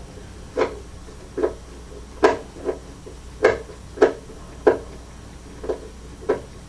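About nine short wooden knocks and clacks at uneven spacing, from tools and parts being handled against a loudspeaker cabinet as it is taken apart.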